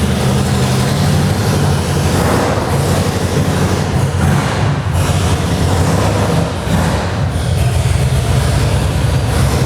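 Another motorcycle's engine running loud and close as the bike is brought out, a steady low rumble with no pauses.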